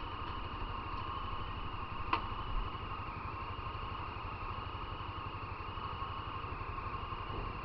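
Motorcycle engine running steadily, with one sharp click about two seconds in.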